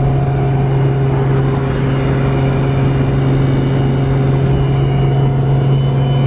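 Built 2JZ inline-six in a Nissan 240SX running steadily under way, a constant-pitch engine drone with no change in revs.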